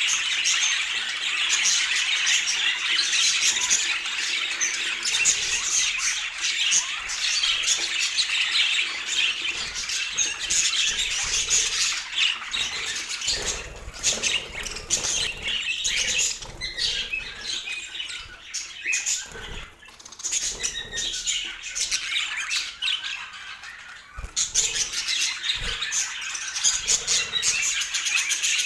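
Budgerigars chattering and squawking continuously in fast, busy warbling, with a quieter stretch past the middle and a few brief low thumps.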